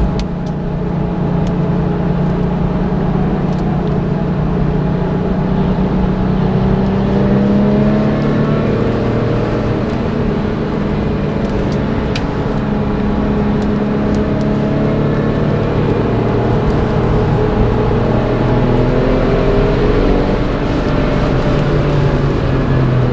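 The 2002 Porsche 911 Turbo's twin-turbocharged 3.6-litre flat-six running hard on track, its pitch rising and falling several times as it accelerates and lifts, heard from inside the cabin over steady tyre and wind noise.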